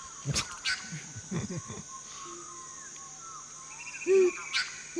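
Tropical forest chorus: a steady high insect drone with assorted short bird whistles and calls, and a loud low hoot about four seconds in. Two sharp clicks, one near the start and one near the end.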